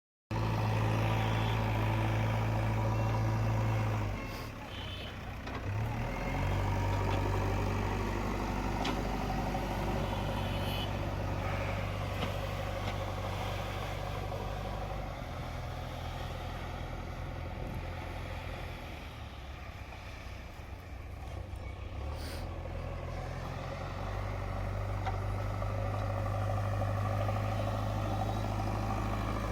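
JCB 3DX Eco backhoe loader's diesel engine running steadily. Its note drops about four seconds in and picks up again near the end as the load on the machine changes.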